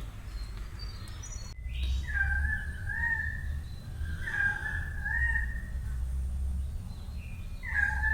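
Birds calling in three bursts of repeated short pitched phrases, over a steady low rumble.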